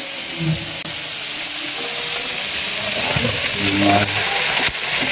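Food sizzling as it fries in a hot pan, a steady hiss that grows slightly louder, with a sharp click near the end.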